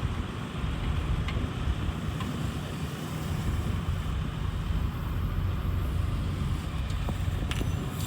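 Steady low rumble of a Mitsubishi Fuso jet dryer truck running, with a few faint clicks.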